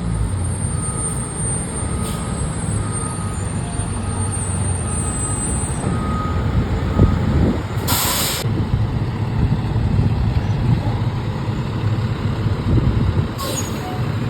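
Heavy diesel fire apparatus running with a steady low rumble, letting off a short loud air-brake hiss about eight seconds in and a fainter one near the end. A faint repeated beeping sounds in the first half.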